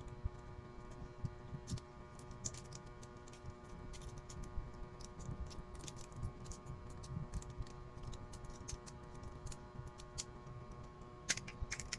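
Scattered small clicks and taps of a perfume bottle and its packaging being handled and opened, with a quick cluster of clicks near the end, over a steady faint hum.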